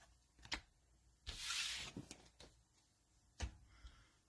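Trading cards being handled: a brief sliding swish about a second and a half in, with a few light ticks and taps around it.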